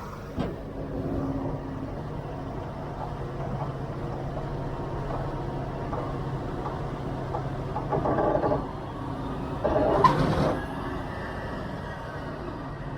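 Heavy diesel truck engine running steadily, with two brief louder surges about eight and ten seconds in.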